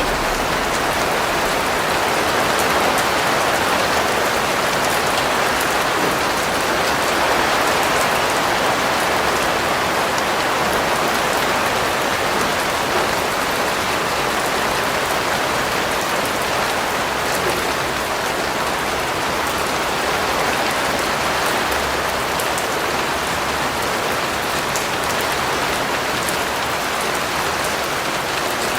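Steady rain falling on a surface, an even hiss with fine pattering of drops.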